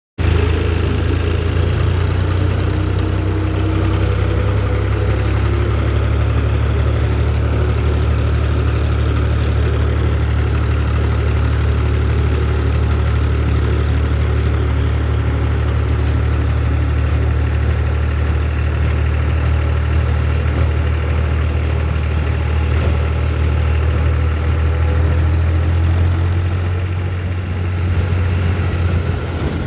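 Tractor engine running steadily with a deep, even rumble, which eases a little near the end.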